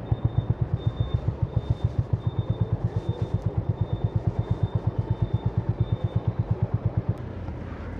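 Honda CB350's 348 cc air-cooled single-cylinder engine idling with an even, rapid exhaust thump, about seven or eight beats a second. The thumping stops abruptly about seven seconds in, as if the engine is switched off, leaving a quieter steady rumble.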